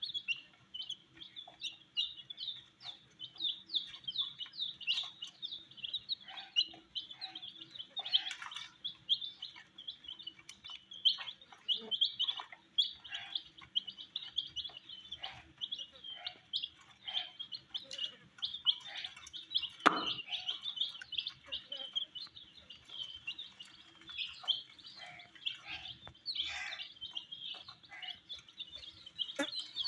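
A group of baby chicks peeping continuously in quick, high-pitched peeps, with scattered small clicks and one louder knock about twenty seconds in.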